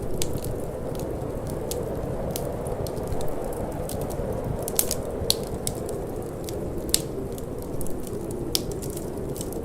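Wood fire crackling, with irregular sharp pops and snaps, a few louder ones about halfway through and near the end. Underneath is a steady low rush of wind.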